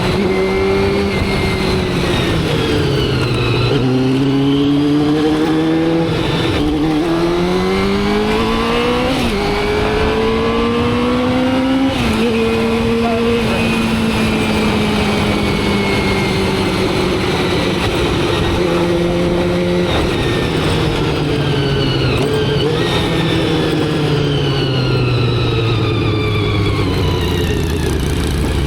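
Motorcycle engine under way. It slows at first, then pulls up through three quick upshifts, each marked by a sudden drop in pitch, before settling into a cruise with a slowly falling pitch that eases off further near the end.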